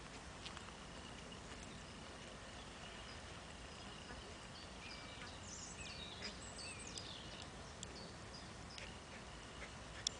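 Faint open-air background noise with small birds chirping and twittering, busiest in the middle, over a thin steady high tone. A single sharp click comes near the end.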